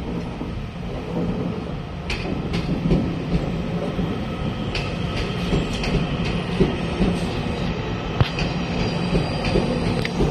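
Trains running through a station: a steady rail rumble with scattered wheel clicks over rail joints and a faint high wheel squeal.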